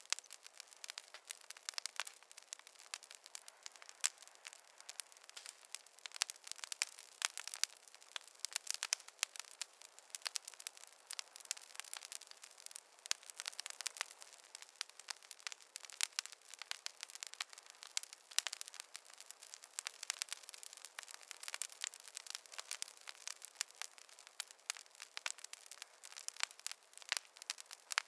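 Wood fire crackling in a fireplace: a steady stream of irregular small pops and snaps from burning logs, with no low rumble of flame beneath them.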